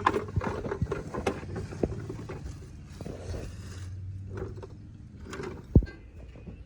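Irregular clicks and knocks of metal parts being handled during engine work, with one sharp loud knock near the end, over a low steady hum.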